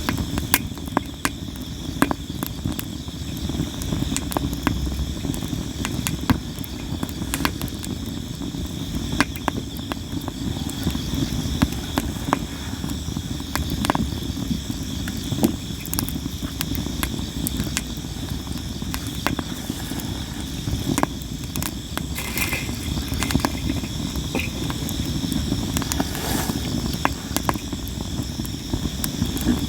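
Sawara cypress wood campfire crackling and popping continually, with sharp snaps scattered through it over a low steady rumble of flame. Insects trill steadily behind it.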